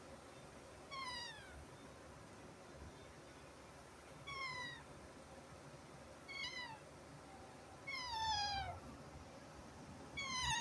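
Baby parrots calling: five short, clear calls a couple of seconds apart, each sliding downward in pitch.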